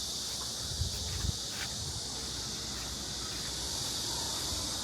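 A steady chorus of summer insects, an even high-pitched hiss, with a few faint knocks about a second in.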